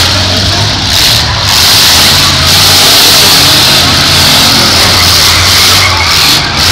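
Demolition derby cars' engines running and revving loudly in the arena, a dense continuous roar.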